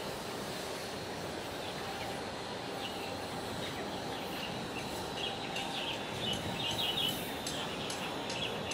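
Steady outdoor background noise with small birds chirping in short high calls, busiest in the second half.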